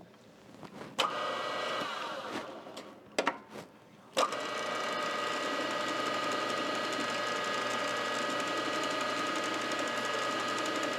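Milling machine spindle motor switched on briefly, then off and spinning down with a falling whine. After a couple of clicks it starts again about four seconds in and runs steadily with a high whine.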